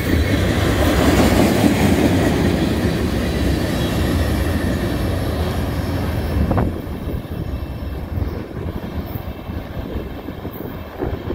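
Freight train cars, tank cars and covered hoppers, rolling along the rails with a steady rumble. About two-thirds of the way through, it drops suddenly to a quieter rolling sound that fades as the train moves away.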